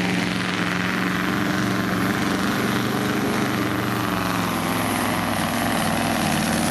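Heavily modified truck-pulling truck's diesel engine running hard at high revs under load, a loud, steady engine drone.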